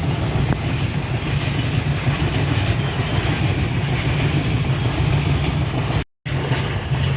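Train running on the rails, a steady rumble with hiss above it. It cuts out for a moment about six seconds in, then resumes.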